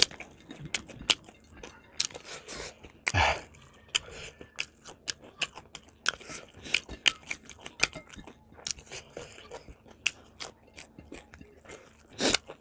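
A person chewing and crunching fried chicken close to the microphone, with many small wet mouth clicks and two louder crunching bites, about three seconds in and near the end.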